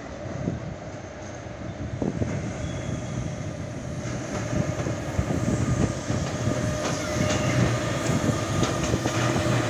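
Class 186 TRAXX electric locomotive hauling a train of tank wagons approaching, its running noise growing steadily louder, with wheel clicks over the rail joints in the second half.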